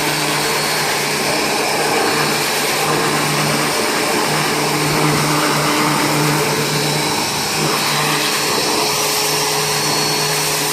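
Vax P89-P2P electric pressure washer running steadily, its motor humming under the hiss of the water jet as it sprays sap and ground-in dirt off a car's bodywork.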